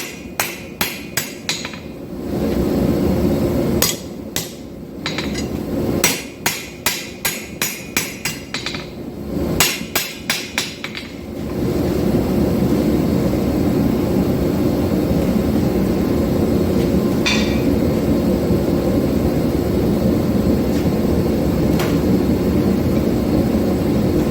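Hand hammer blows on hot 5160 steel on an anvil, a lighter 2-pound hammer drawing out a knife blade: quick runs of ringing strikes, about three or four a second, in three runs. About halfway through the hammering stops and a steady rushing noise with a low hum carries on.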